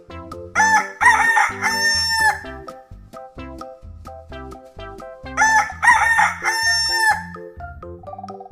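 Rooster crowing twice, each cock-a-doodle-doo lasting about two seconds, the second starting about five seconds after the first, over light background music with a steady beat.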